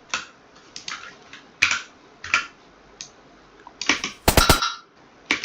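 Computer keyboard keystrokes, irregular single taps with a quick, louder run of keys about four seconds in.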